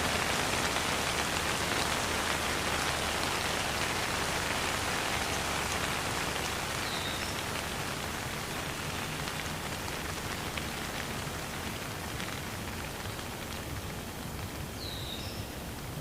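Steady rain falling, an even hiss of drops with no thunder, growing slightly quieter towards the end. A short high chirp sounds twice, about seven seconds in and near the end.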